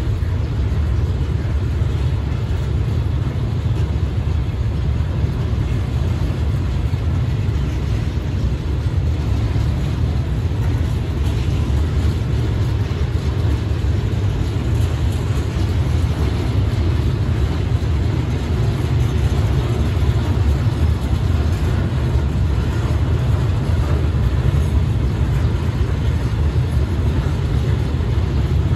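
Freight train of flatbed wagons rolling past: a steady low rumble of steel wheels on the rails, with a few faint clicks.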